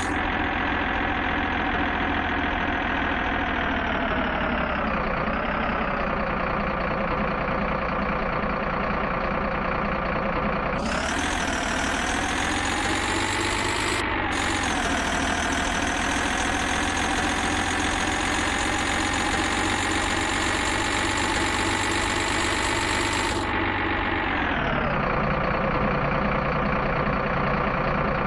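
Truck diesel engine running steadily. Its pitch drops a few seconds in, climbs again about halfway through, and drops once more near the end.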